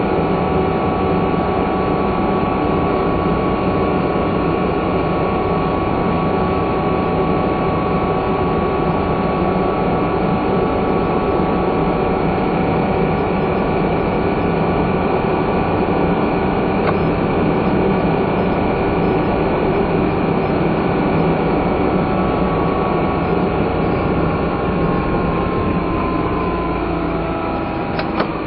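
Non-turbo kei car engine running steadily with road and tyre noise, heard from inside the cabin; the engine note falls over the last few seconds.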